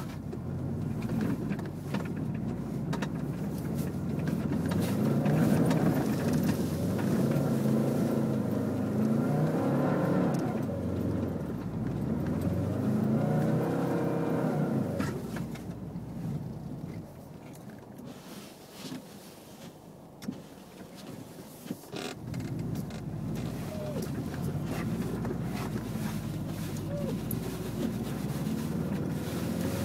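Subaru WRX turbocharged flat-four engine heard from inside the cabin, revving up and down repeatedly while the car spins through donuts on snow. The engine note rises and falls in several sweeps, eases off to quieter running for a few seconds past the middle, then builds again near the end.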